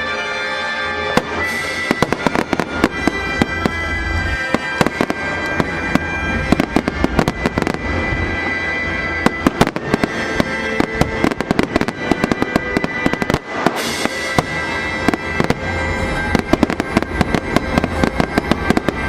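Fireworks going off in rapid succession, a dense run of bangs and crackles, with music playing under them.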